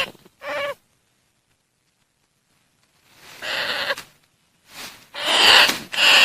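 Greater bandicoot rat calls played as a trapping lure: a series of squealing calls with a wavering pitch. The calls stop for about two seconds of total silence, then start again and come thick near the end.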